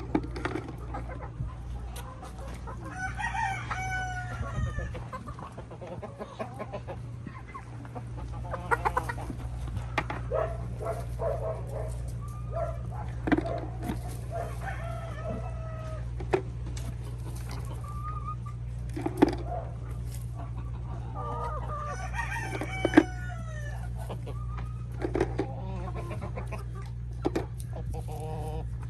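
Chickens clucking, with a rooster crowing twice, once a few seconds in and again near the end, over a steady low hum.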